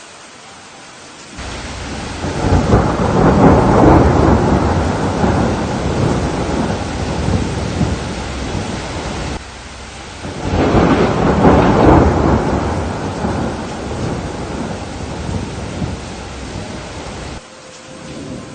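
Steady rain with two long rolls of thunder. The first swells up about a second in and the second about ten seconds in; each rumbles on for several seconds and then cuts off abruptly back to the rain alone.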